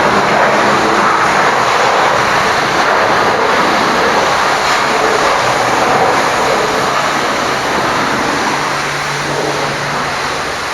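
High-pressure washer spraying water at a truck, a steady rushing noise, with a faint low hum coming in near the end.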